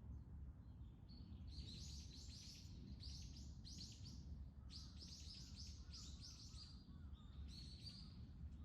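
A small songbird giving several quick runs of high, rapid chirps, faint over a steady low background rumble.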